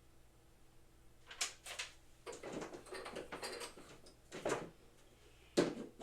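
Parts of boxing equipment being handled and fitted together during assembly: a few sharp clacks, a stretch of rattling, then a louder knock near the end.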